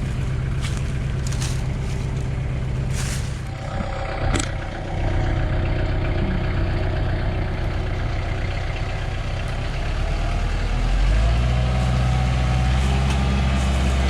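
A vehicle engine running steadily, with one sharp knock about four seconds in; the engine gets louder about ten seconds in.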